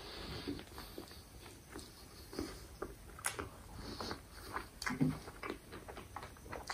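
Faint chewing and mouth sounds from eating a cheese-stuffed burger: irregular soft clicks and smacks, with a brief low hum from the eater about five seconds in.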